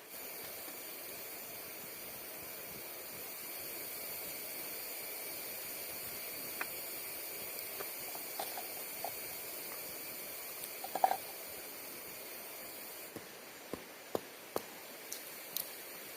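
Steady outdoor forest ambience: an even high hiss with faint steady high tones, broken by scattered light clicks and knocks, with a short cluster of louder knocks about eleven seconds in.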